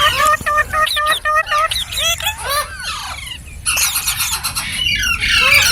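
Ringneck parrot calling: a quick run of repeated squawks, then swooping notes, and a harsh screech about four seconds in.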